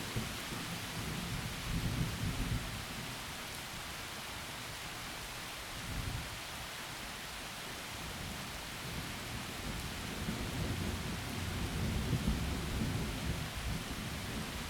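Heavy rain falling steadily, with low rolling thunder rumbling in the first couple of seconds, briefly again about six seconds in, and in a longer swell through the second half.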